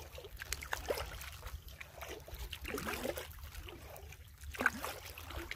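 Canoe paddle strokes in calm water: the blade dipping and pulling with small splashes and water trickling off it, and one sharper splash or knock near the end.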